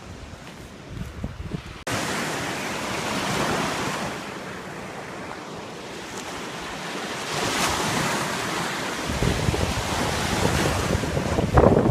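Wind blowing across the microphone over the steady rush of lake waves, with a sudden jump in level about two seconds in and heavier wind rumble in the last few seconds.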